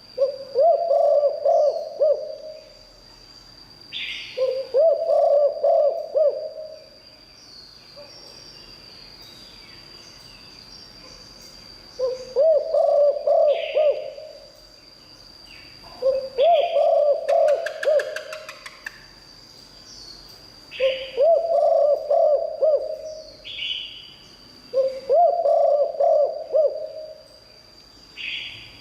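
Spotted dove cooing: six phrases of low coos, each about two seconds long and a few seconds apart. Short higher chirps fall between the phrases, over a thin steady high tone.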